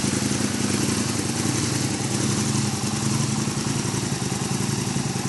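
Aprilia Tuono motorcycle engine idling steadily through its aftermarket exhaust.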